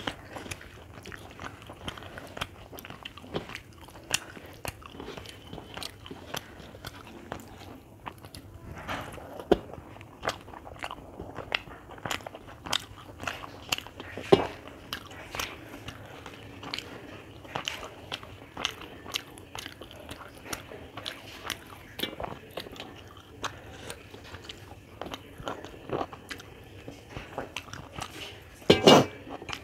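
Close-miked chewing and mouth sounds of someone eating rice and chicken, with scattered crunchy clicks throughout and a louder burst of them near the end.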